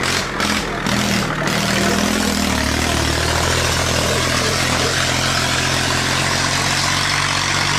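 Tractor engine running steadily at idle: an even low drone with a hiss over it. A few brief clicks come in the first second and a half.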